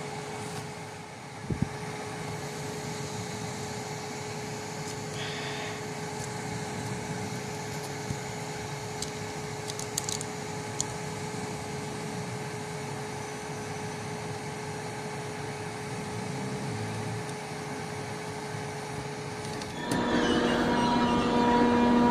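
Steady background hum with one held tone, broken by a few light plastic clicks from handling LEGO pieces. About twenty seconds in, a civil defense siren starts sounding and gets louder.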